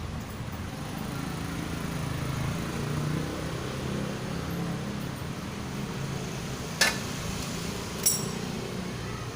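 Two sharp metallic clinks about a second apart, near the end, over a steady low hum: metal tools or parts knocking together during motorcycle engine assembly.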